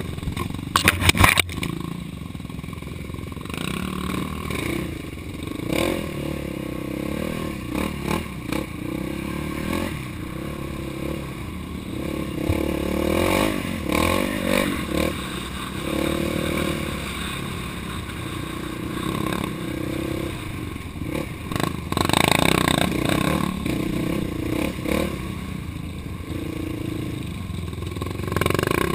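Off-road engine running along a dirt trail, its pitch rising and falling as the throttle opens and closes. Sharp clattering knocks come through it, loudest about a second in and again about 22 seconds in.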